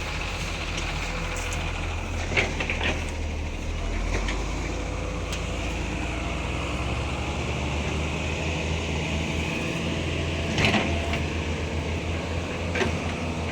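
Heavy diesel earthmoving machines running with a steady low drone, with three sharp metallic clanks along the way.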